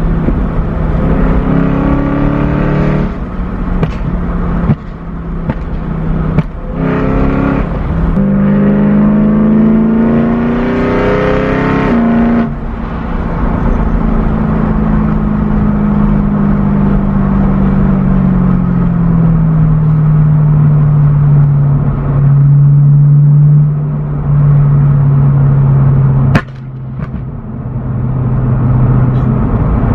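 BMW M3's S65 V8 through a catless, valved exhaust with the valves open, revved in short blips and then in a longer climb that cuts off about twelve seconds in. After the cut-off the revs sink slowly and settle into a steady low drone. A sharp click comes near the end.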